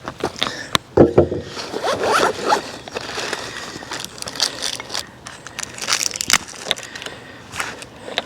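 Gear being handled: a run of knocks, clicks and scrapes, with a heavy knock about a second in and a longer scrape soon after.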